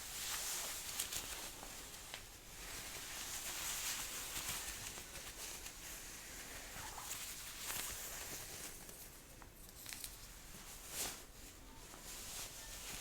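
Jacket sleeve being rolled up: fabric rustling in irregular swells of soft hiss, with scattered small clicks.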